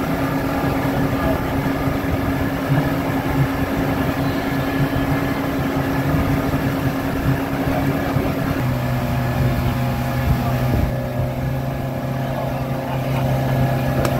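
Tour boat's engine running steadily under a rush of wind and water. About two-thirds of the way through, the engine note drops to a lower pitch.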